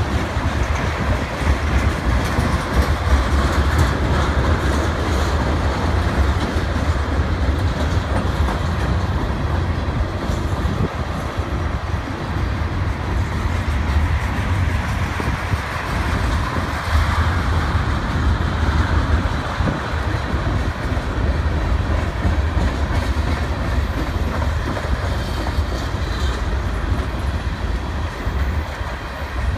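Freight cars of a CN freight train rolling past at steady speed: a continuous deep rumble and rolling noise of steel wheels on the rails.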